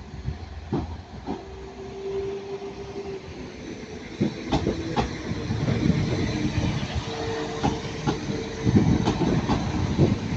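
Class 197 diesel multiple unit pulling away, its engine and transmission humming in steady tones that shift pitch, with its wheels knocking in pairs over rail joints. It grows louder about four seconds in.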